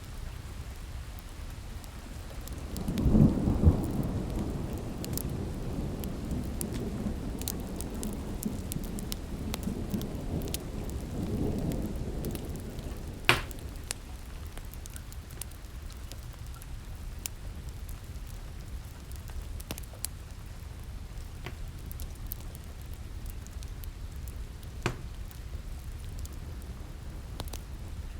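A thunderclap about three seconds in, rumbling on for about ten seconds over steady rain. A wood fire crackles and pops throughout, with one sharp pop just after the thunder dies away.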